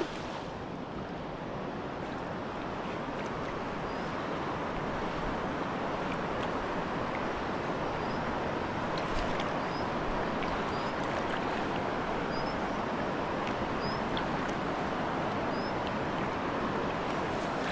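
Steady rushing noise of water and wind, with a bird giving short, high, rising chirps every second or two through the middle.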